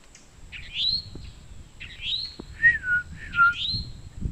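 Songbirds calling: a rising, whistled note repeated about every second and a half, with two lower notes sliding downward near the end.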